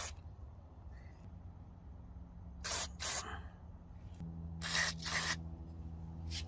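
Aerosol can of CRC MAF sensor cleaner sprayed in short hissing bursts onto a mass airflow sensor to clean it: two quick sprays about three seconds in, two more about five seconds in, and a brief one near the end. A steady low hum runs underneath, and a low tone joins it about four seconds in.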